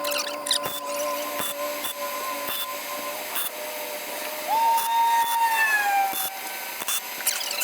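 Electric power-tool motor running with a steady whine, with scattered clicks. About four and a half seconds in, the pitch jumps higher and then slowly sags.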